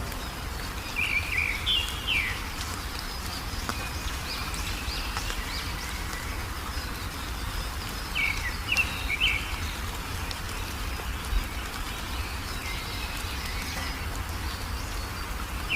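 Small songbird chirping in two short bursts of quick, high notes, about a second in and again about eight seconds in, over a steady low background rumble.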